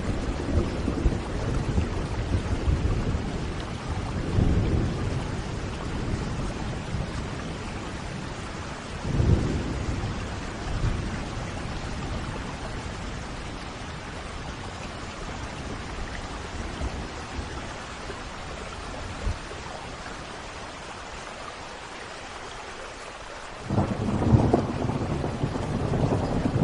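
Thunderstorm: steady rain with rolling thunder rumbling low. The rumbles swell early on and about nine seconds in, ease off for a while, then a loud clap of thunder breaks in suddenly near the end.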